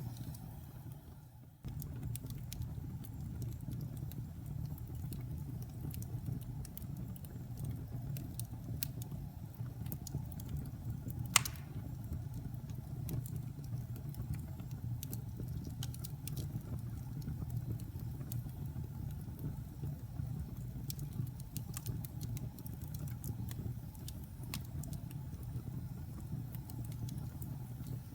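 Wood fire burning in a fireplace: a steady low rumble with scattered small crackles and one sharp pop about eleven seconds in. The sound dips away during the first second and a half, then cuts back in suddenly.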